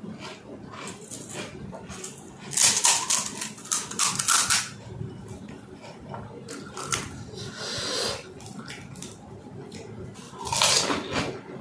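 Person eating pani puri close to the microphone. There are bursts of dense, crisp crunching from the fried puri shells about two and a half seconds in and again near the end, with quieter wet chewing sounds between.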